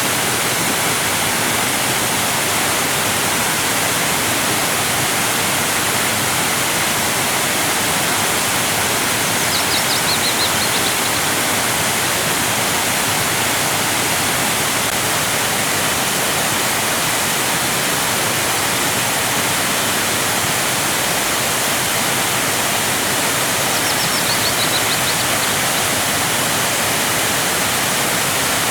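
Waterfall: water cascading in a steady, even rush with no breaks. Two faint brief high chirps come through over it, about a third of the way in and again near the end.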